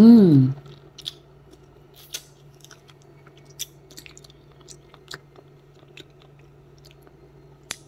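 A person chewing a cherry close to the microphone: scattered small wet clicks and smacks of the mouth. A short falling hum of the voice comes right at the start, over a steady low hum.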